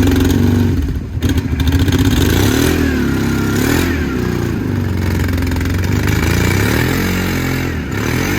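A car's engine under way, its pitch rising and falling several times as it accelerates and eases off.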